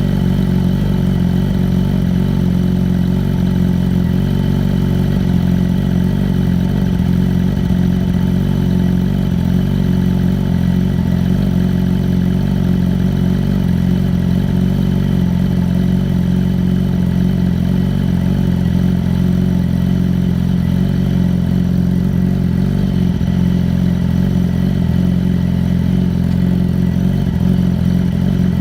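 Sport motorcycle engine idling steadily on a cold start.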